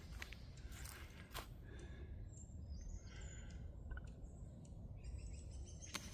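Faint footsteps on a forest trail in the first second or so. From about two seconds in, songbirds give short, high chirps and twitters.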